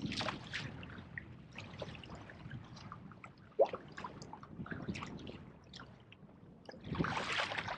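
Water lapping and splashing against a kayak's hull, with one short sharp knock about three and a half seconds in and louder splashing near the end.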